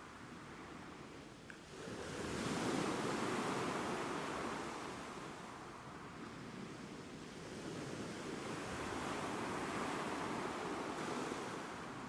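Ocean waves breaking and washing on the shore: a surge of surf builds sharply about two seconds in, then eases, and a second, gentler swell of wash rises and fades near the end.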